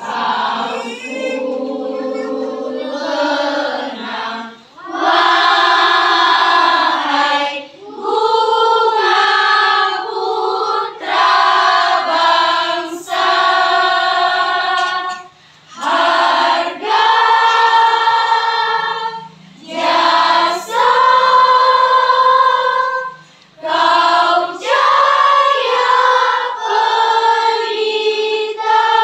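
Junior high school choir singing, in held phrases of a few seconds each separated by short breaks.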